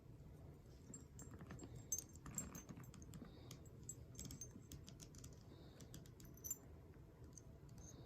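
Faint handling noise of a leather handbag: scattered light clicks and rustles as it is turned and folded.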